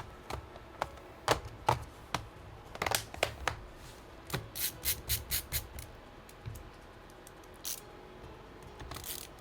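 Hands handling laptop parts and small screws: scattered light clicks and taps, with a quick run of sharp ticks, like screws rattling, about halfway through.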